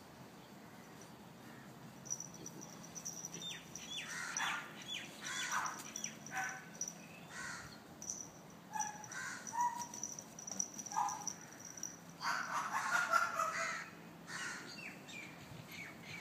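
Birds calling: scattered short calls, several falling sharply in pitch, over a thin steady high note. A louder run of harsh calls comes about twelve seconds in.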